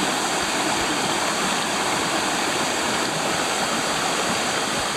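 Small mountain stream rushing over rocks close by, a steady, unbroken flow.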